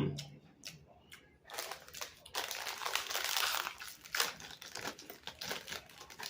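Crinkly plastic chip bag being handled and opened, crackling for several seconds from about a second and a half in.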